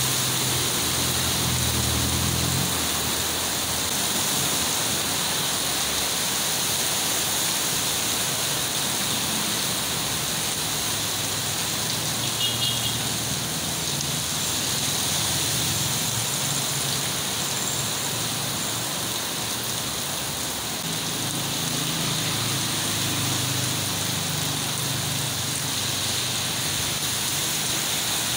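Heavy rain pouring steadily onto a flooded street. Vehicles drive through the standing water at the start and again in the last few seconds, their engines a low hum under the rain.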